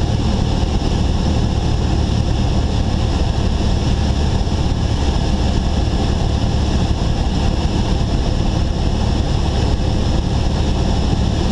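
Steady cabin drone of a Cessna 172 on approach: the propeller engine pulled back to idle under the rush of airflow past the airframe, heard from inside the cockpit.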